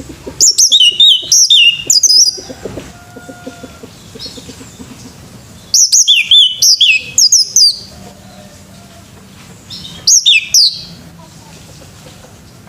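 Male orange-headed thrush singing: three loud bursts of rapid, gliding whistled phrases, each a second or two long, with pauses of a few seconds between them.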